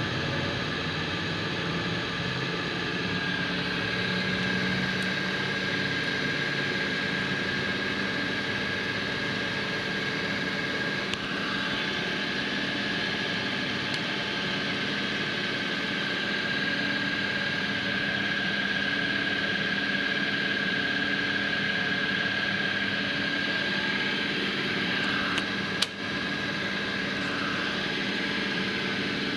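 Pro-max vertical milling machine's three-phase spindle motor and drive running steadily in reverse: a steady whine over a hum. A single sharp click comes near the end.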